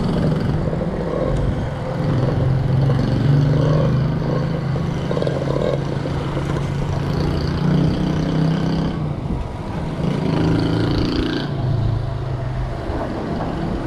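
Motor vehicle engine running steadily, with road and wind noise.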